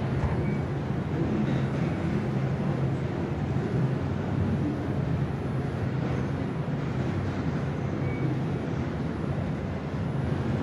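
R142 subway car running between stations, heard from inside the car: a steady low rumble of wheels on rail and running gear, with no break or sudden event.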